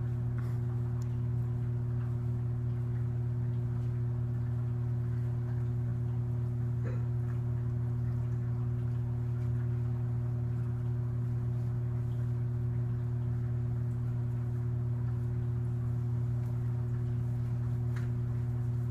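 A steady low machine hum with a couple of fainter, higher steady tones above it, unchanging throughout.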